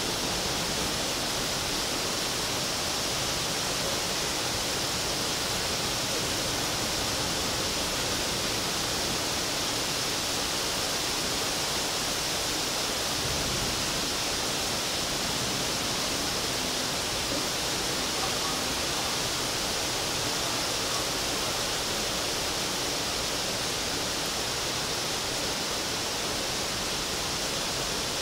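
Heavy downpour: a steady, dense hiss of rain.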